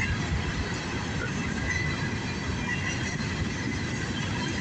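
Empty coal hopper cars of a CSX freight train rolling past at track side, a steady rolling noise with a faint high squeal that comes and goes.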